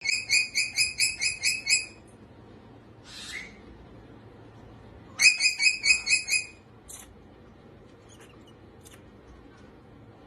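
A bird gives two runs of short, high, evenly repeated chirping calls, about five a second: the first at the start, lasting about two seconds, the second about five seconds in. Between them there is a brief soft rustle, and a few faint clicks follow.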